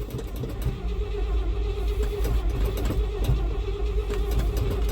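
International 304 V8 being cranked over by its starter on a cold start, turning over steadily without catching; the choke is not hooked up.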